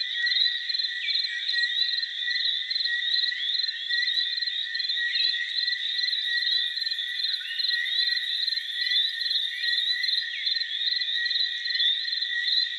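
Jungle ambience: a dense, continuous chorus of calling frogs and insects, with steady high trilling, rapid pulsing calls and short chirps, and no low sound at all. A very high insect buzz joins about halfway through and stops a few seconds before the end.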